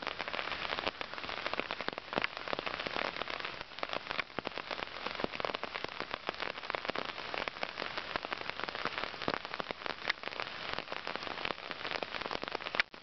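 Steady rain falling, with many separate close drop hits over a continuous hiss.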